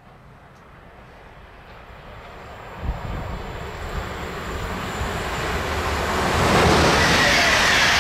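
Railjet express train approaching and passing through the station at speed. The rush of the train and its wheels on the rails builds steadily louder, with a brief knock about three seconds in, and is loudest over the last second or two as the cars go by close at hand.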